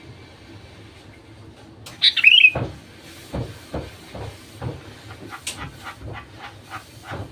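A sooty-headed bulbul gives one short, bright call about two seconds in. It is followed by a run of soft knocks or ticks, about two to three a second.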